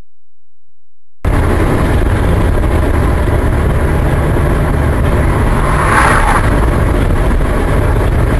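Vehicle engine and road noise: a steady, loud rumble that cuts in abruptly about a second in after near silence, with a brief louder swell about five seconds later.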